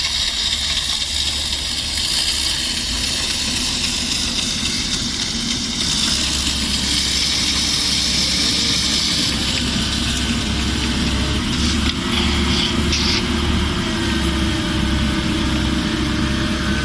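A snow-clearing machine's engine running steadily under a strong rushing hiss, growing a little louder about six seconds in.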